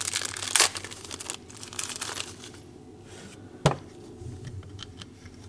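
Crinkling and rustling of material being handled, busiest in the first second and a half, then quieter, with one sharp click about three and a half seconds in.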